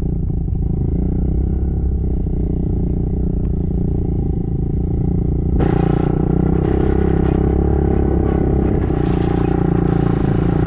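A motor vehicle's engine running steadily at an even pitch. About five and a half seconds in it gets louder and brighter, then holds.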